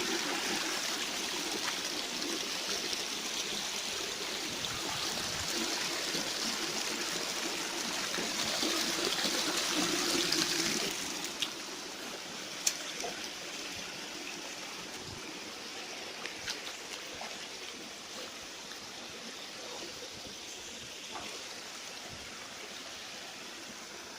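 River water running over stones in a steady rush. It is louder for about the first ten seconds, then drops to a softer flow, with a few sharp clicks near the middle.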